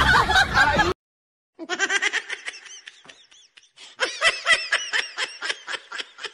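Music stops about a second in, and after a brief gap a person laughs in quick, repeated bursts of 'ha-ha', fading a little and then picking up louder again about four seconds in.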